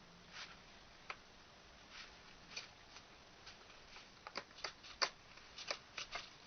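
Faint, scattered clicks and taps of small objects being handled, coming more often in the second half.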